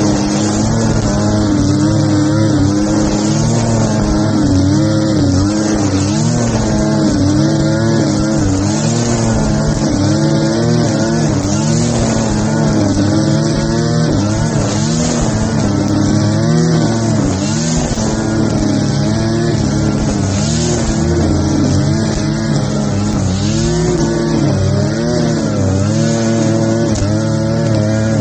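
Grass-cutting machine's small engine running at high speed, its pitch dipping and recovering every second or two as it cuts grass, over a steady hiss.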